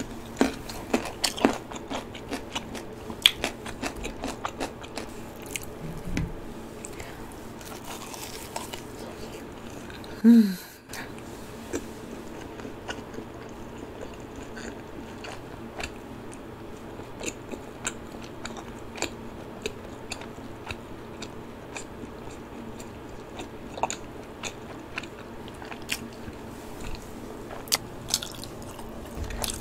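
Close, crisp crunching and chewing of cheese-powdered fried chicken, with many sharp crackles, thickest in the first few seconds. One short hum from the eater about ten seconds in.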